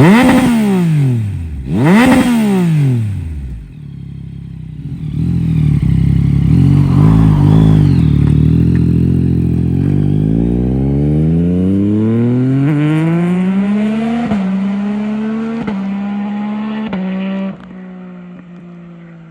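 Yamaha Tracer 9 GT+'s 890 cc inline-three, through an Akrapovič full race exhaust with the baffle removed, passing fast twice right at the start, the pitch sweeping down as it goes by. The engine then pulls hard, its pitch climbing through three quick upshifts, and turns quieter near the end.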